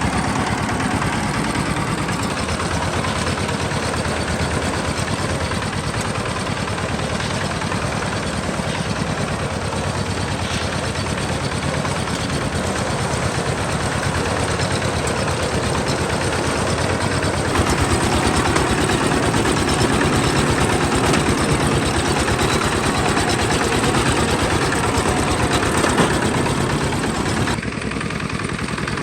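Tractor engine running steadily, growing a little louder past the middle and dropping back shortly before the end.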